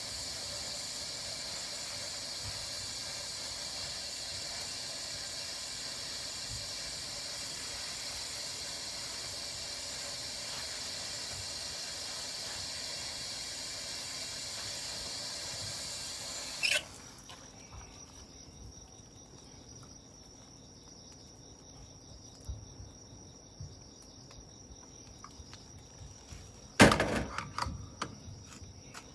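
Night insects chirping in a steady high drone that cuts off suddenly about two thirds of the way in, leaving a fainter single high insect tone. Small pops from a campfire, and one loud crack near the end.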